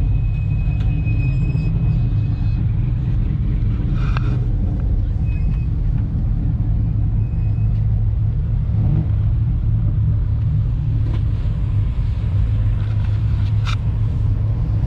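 Steady low rumble of idling car engines, even in level throughout, with a few faint brief high-pitched chirps and clicks over it.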